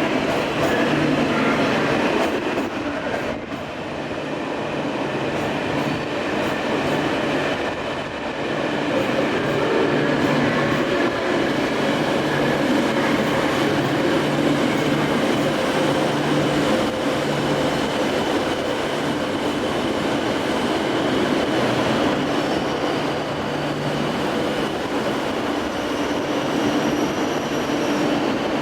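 E8 series Yamagata Shinkansen train running slowly into the station: a steady rumble of wheels on rail with a low hum that comes and goes.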